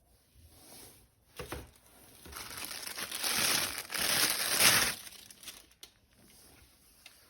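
Plastic packaging crinkling as it is handled and unwrapped. There is a short rustle about a second and a half in, then a longer run of crinkling from about two to five seconds in.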